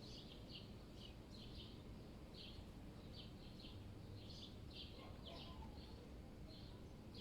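Small birds chirping, short high chirps repeated every half second or so, over a faint, steady low city rumble.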